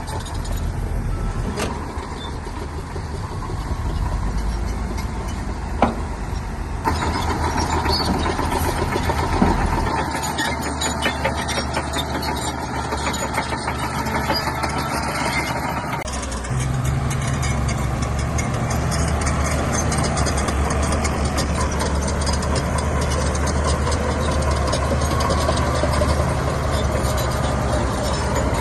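Shantui bulldozer's diesel engine running steadily, with a few sharp knocks. The engine sound changes abruptly about 7 seconds in and again about 16 seconds in.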